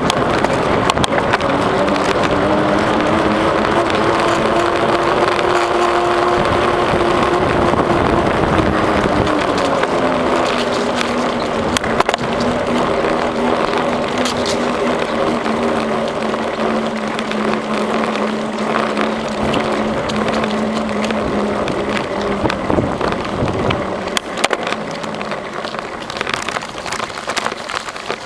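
A bicycle rolling along a path, with wind rushing over the microphone and tyre noise. A steady hum drifts slowly in pitch as the speed changes, and a few sharp clicks and rattles come near the end.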